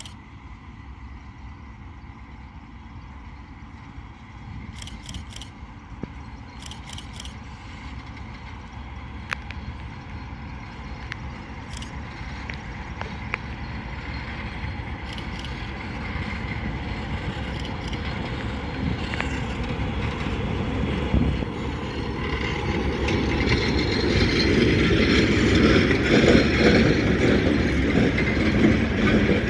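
Freight train approaching, its rumble growing steadily louder until the wagons' rattle fills the last few seconds as it arrives.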